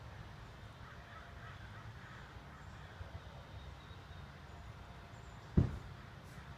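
Faint bird calls over a steady low rumble, with one dull thump about five and a half seconds in.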